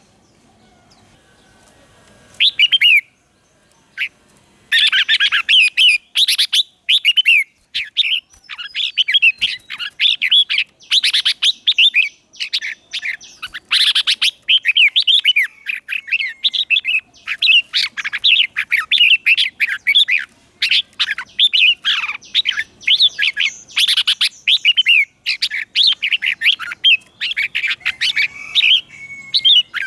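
Red-whiskered bulbul singing: after a short opening phrase, a long run of quick, warbling whistled phrases starts about five seconds in and continues without a break. It is a decoy bird's song, used to lure and challenge other bulbuls.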